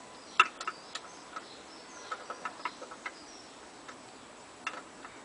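Scattered light clicks and taps of hands working on the truck, loudest about half a second in, with faint bird chirps in the background.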